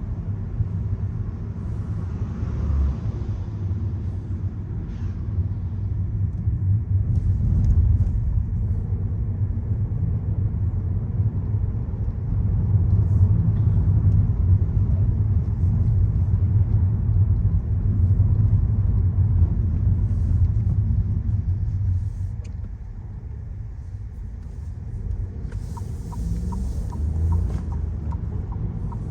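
Volkswagen Golf 1.0 TSI's turbocharged three-cylinder engine and road rumble heard while driving, the engine note rising and easing with the throttle. A brief hiss comes near the end, along with a row of light, evenly spaced ticks.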